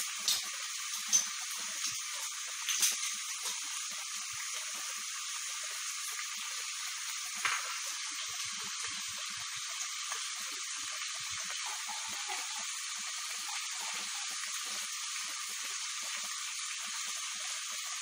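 Desi chicken pieces frying in a pot, a steady sizzle as the meat is browned. A few light clicks come in the first three seconds and once near the middle.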